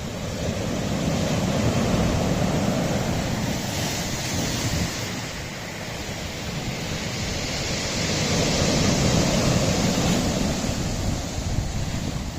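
Sea waves washing onto a rocky shore, the surf swelling twice, once near the start and again in the second half, with a lull between.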